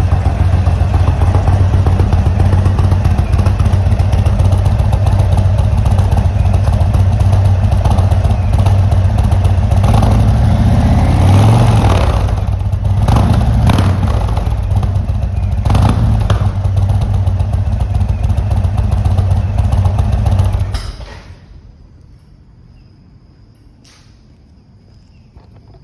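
Indian motorcycle engine running through Indian oval slip-on exhausts: a steady idle, blipped with the throttle a few times between about ten and sixteen seconds in, then switched off about 21 seconds in.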